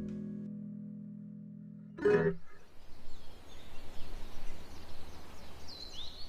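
A song's final guitar chord ringing out and fading away. About two seconds in comes a short sharp sound, then open-air ambience with a faint hiss and a bird chirping near the end.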